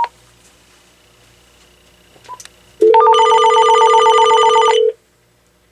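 AT&T 7720 cordless phone's electronic ringer sounding one ring of about two seconds, starting near the middle. It is a rapid warble over a steady low tone and cuts off sharply.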